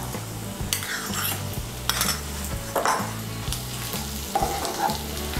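Chopped tomato frying with onions in hot oil in a kadai: a steady sizzle, with a spatula scraping and stirring against the pan in several strokes.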